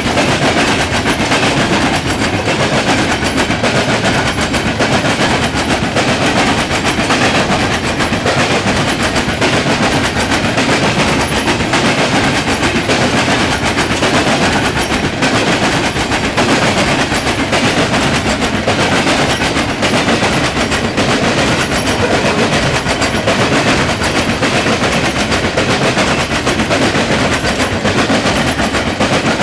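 Coal train's freight cars rolling past at speed, steel wheels clattering rapidly and without a break over the rail joints.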